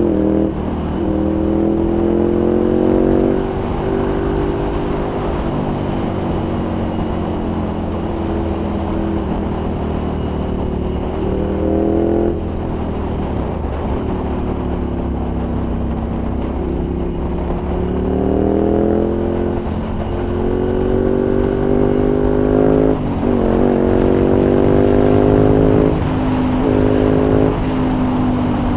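Ducati Monster's L-twin engine through a Termignoni exhaust, heard from the rider's seat while riding. The revs climb in several pulls, each cut off by a drop in pitch at an upshift, with steadier cruising in between.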